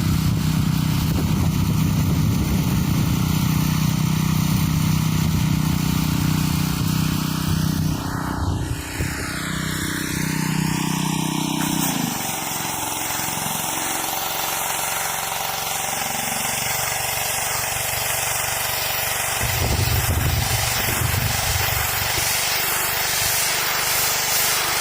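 Pressure washer's engine running steadily under the hiss of high-pressure water spray. About halfway through, the engine's low hum drops away and the spray hiss carries on.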